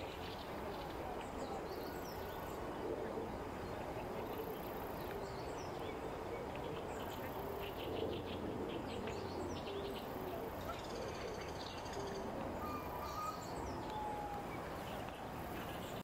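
Wild birds calling faintly now and then over a steady hiss of open-air background noise.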